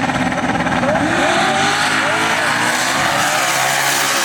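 Two V8 drag cars, a Pontiac Trans Am WS6 and a single-turbo LS-swapped Nissan 240SX, held at steady revs on the line, then about a second in launching and accelerating away hard, their engine notes rising in pitch.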